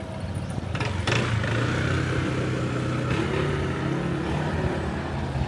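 Street traffic: a motor vehicle engine running close by, with a brief noisy burst about a second in.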